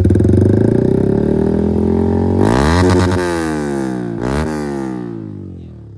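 Yamaha R15 V4M's 155 cc single-cylinder engine through a loud aftermarket Akrapovic exhaust, revved while standing: held at raised revs, then a sharp throttle blip about two and a half seconds in and a shorter one a couple of seconds later, the pitch climbing and then falling back toward idle. Very loud.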